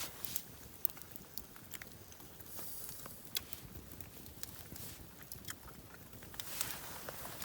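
A person chewing a mouthful of steak, with scattered short clicks through it.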